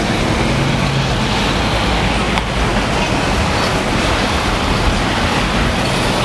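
Steady din of a crowded exhibition hall: a dense, even wash of background noise with a faint low hum and no single sound standing out.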